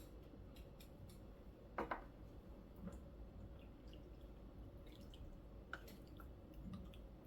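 Faint scattered clicks of utensils with soft wet sounds as someone starts eating a bowl of kalguksu noodle soup, one slightly louder about two seconds in.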